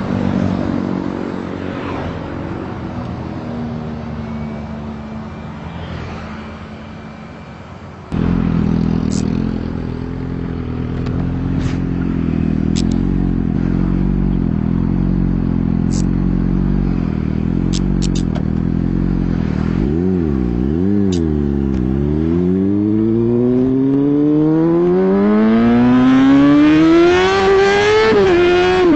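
Hero XPulse 200 4V motorcycle's single-cylinder engine running under way, with a sudden jump in low rumble about a third of the way through and scattered sharp clicks. About two-thirds through, the revs dip and rise a couple of times, then climb steadily as the bike accelerates near the end.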